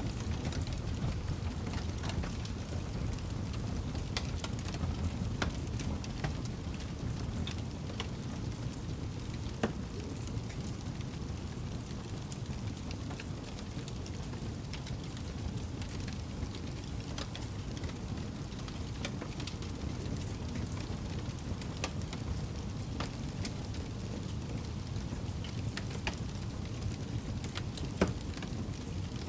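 Campfire burning with a steady low rumble of flames and scattered crackles and pops, one louder pop near the end.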